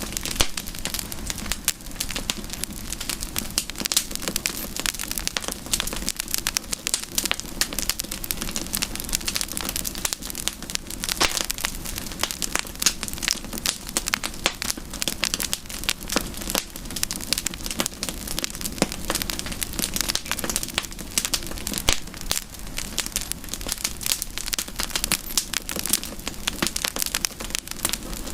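Wood campfire burning, with dense, constant crackling and popping over a low, steady rumble.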